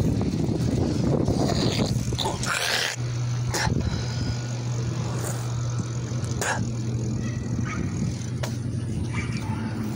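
Steady low rumble of riding a bicycle outdoors, with a few sharp clicks.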